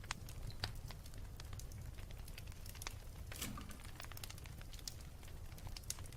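Wood fire burning, with scattered sharp crackles and pops over a steady low rumble, and a brief hiss about halfway through.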